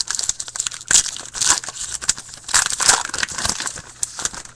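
A trading card pack wrapper being torn open and crinkled by hand, a dense crackling that swells twice and fades near the end.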